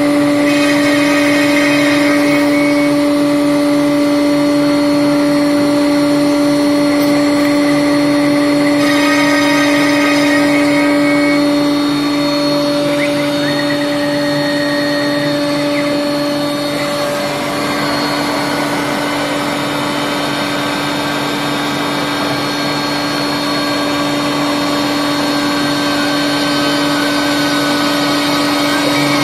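Home-built CNC machine with 1610 ballscrews running: a steady motor hum with several whining tones above it. Some of the higher whines come and go about a third and again about halfway through.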